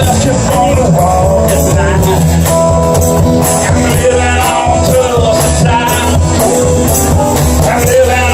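Live band playing an upbeat rock-and-roll number, with a singer over guitar and a steady drum beat.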